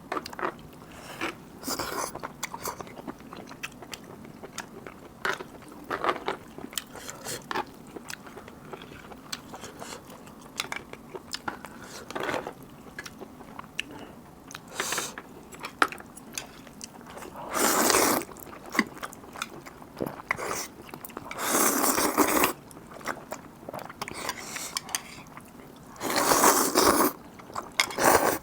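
Close-miked eating: mouth sounds of chewing and biting through black bean noodles and seafood, with many small wet clicks and a few louder bursts of about a second each, near the end.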